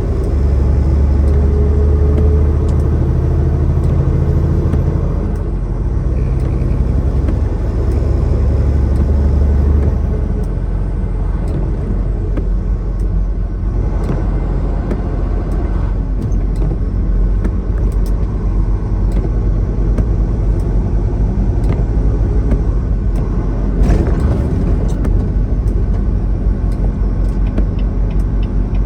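Tractor-trailer's diesel engine running with road noise as the truck gets under way. A strong, steady low drone changes about ten seconds in and gives way to an even rumble.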